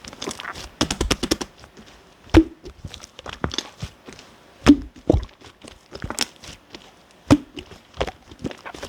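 Hands squishing and poking clear slime mixed with shaving foam: a steady run of sticky clicks and crackles, with four louder sharp pops.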